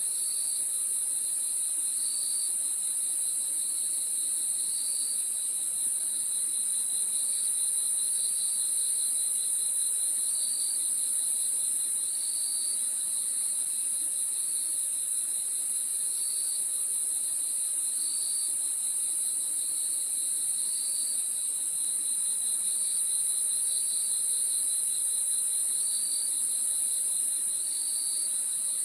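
Crickets chirping: a steady high-pitched trill, with shorter chirps repeating about once a second at a lower pitch beneath it.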